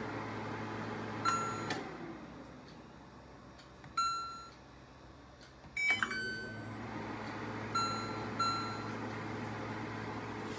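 Microwave oven running with a steady hum. A short keypad beep comes about a second in and the hum cuts off just after; there is another beep about 4 s in. About 6 s in the hum starts again with a click, and two more beeps follow near 8 s.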